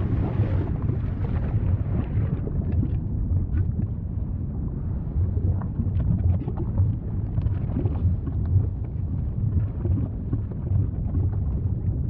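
Volcanic eruption rumbling steadily and deeply, with scattered small crackles and pops throughout.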